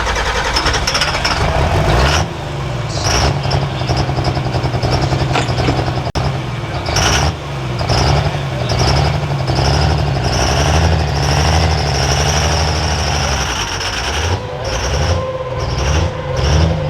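Pro-stock diesel pickup truck engine running hard under load, pulling a weight sled. The engine note rises and dips, with a steady high whine over it.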